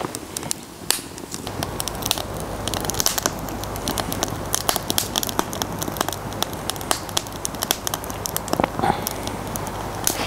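Wood fire burning in a Bushbox XL hobo stove, crackling with many irregular sharp pops. A low steady rumble sets in about a second and a half in.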